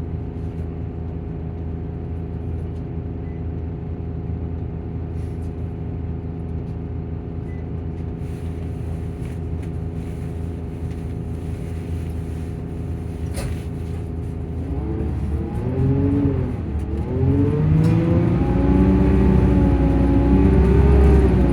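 Volvo Plaxton coach's diesel engine running at a steady speed. About two-thirds of the way in the revs rise, dip once and climb again as it accelerates, getting louder.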